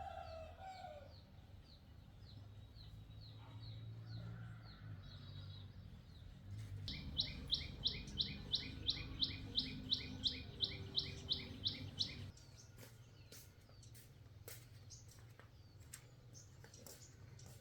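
Birds chirping: one bird repeats a short, high, sharp chirp about three times a second, loudest in the middle for about five seconds. A faint low hum runs underneath.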